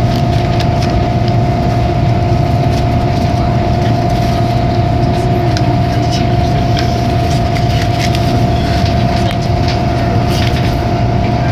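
Hong Kong Airport Express train running steadily at speed, heard from inside the carriage: a constant low rumble under a steady whine, with scattered light clicks.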